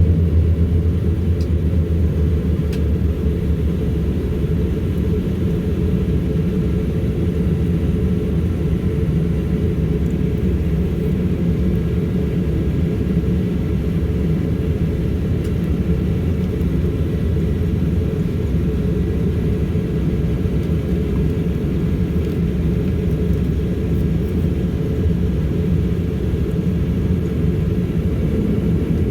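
Embraer EMB-120 Brasilia's twin Pratt & Whitney Canada PW118 turboprops running, a steady low propeller drone heard through the fuselage.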